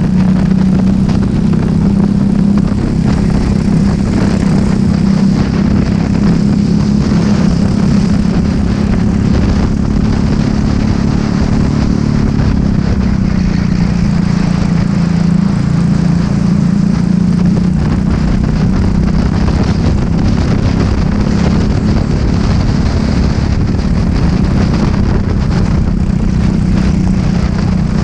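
Racing kart engine running hard at high revs throughout, its pitch dipping slightly around the middle and climbing again.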